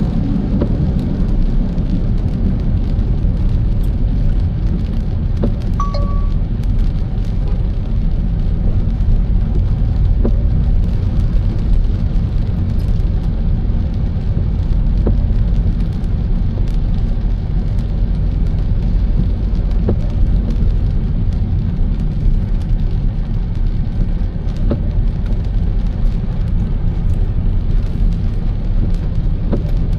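Steady low rumble of a car being driven on a wet road in the rain, with faint scattered ticks.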